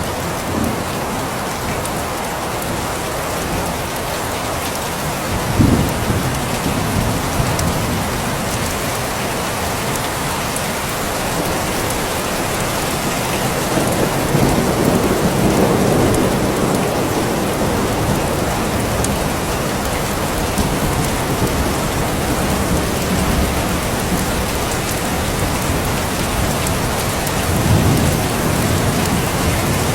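Steady heavy rain hissing without a break, with low rolls of thunder. A short loud one comes about five seconds in, a longer one in the middle, and another near the end.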